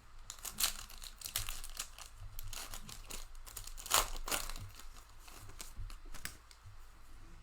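Foil wrapper of a trading-card pack being crinkled and torn open: a run of irregular crackles, loudest about four seconds in.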